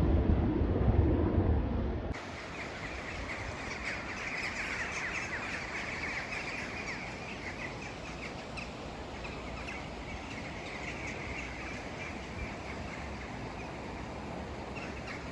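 Wind buffeting the microphone for about two seconds, then a sudden change to a steady twittering of many small birds chirping over a background hiss.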